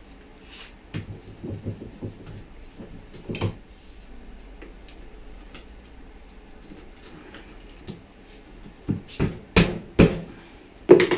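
Metal tools and shock-absorber parts clinking and knocking during workbench disassembly of a motorcycle rear shock: a scatter of light taps in the first couple of seconds, one louder knock about three and a half seconds in, then a quick run of sharp, loud knocks near the end.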